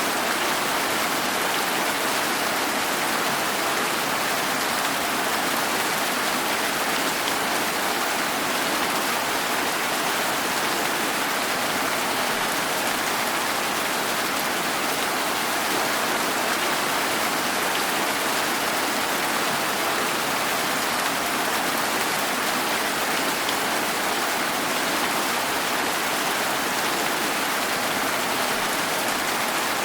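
Steady rain falling, an even hiss of drops with no breaks or changes in strength.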